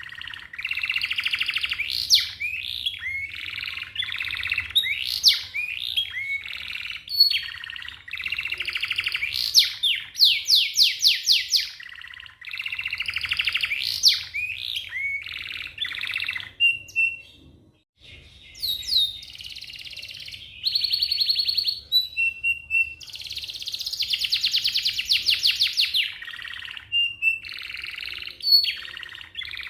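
Domestic canary singing a long song of fast rolls: rapid trills of repeated notes alternating with rising sweeps and short chips, with a brief pause about two-thirds of the way through.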